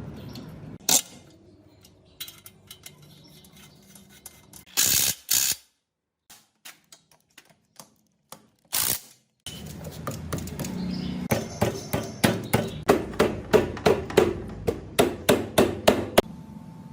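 Hand-tool work on metal motorcycle parts: scattered knocks and clinks, then a run of evenly spaced taps, about two a second, in the last few seconds.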